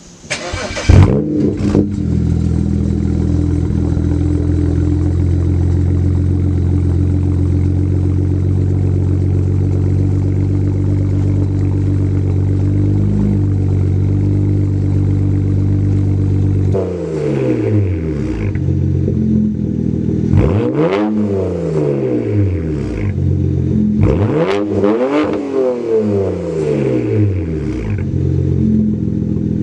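BMW 335i's N54 twin-turbo inline-six, running with its mufflers deleted. It starts up with a flare about a second in, idles steadily, then is revved several times from about halfway, the pitch rising and falling with each blip before it settles back to idle.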